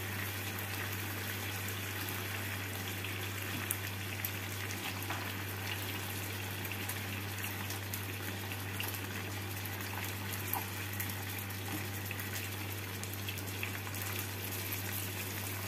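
Marinated chicken drumsticks sizzling steadily in oil in a non-stick frying pan, with a couple of faint clicks as the pieces are turned with a turner and forks.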